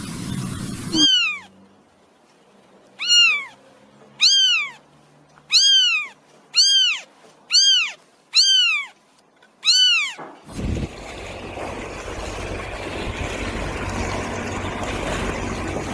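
Kitten meowing: eight short, high-pitched mews over about nine seconds, each rising and then falling in pitch. A steady hiss follows for the last five seconds.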